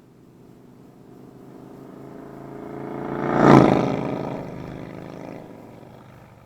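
Motorcycle passing by: its engine sound builds steadily, peaks sharply about three and a half seconds in, and then fades away.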